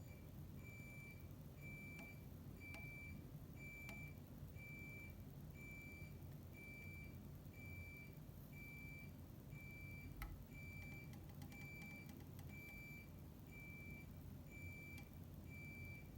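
Faint electronic beeping, short beeps of one steady pitch repeating evenly at nearly two a second, over a low hum, with a few faint clicks.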